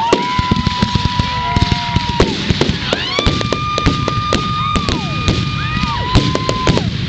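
Fireworks display: rapid crackling and popping bangs throughout, with several long steady whistling tones over them. Each tone lasts a second or two, slides up at its start and down at its end, and several overlap in the middle.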